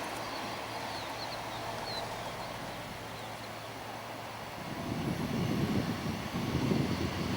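Airbus A319's CFM56 jet engines: a distant steady rush, then a louder, uneven low rumble setting in about two-thirds of the way through.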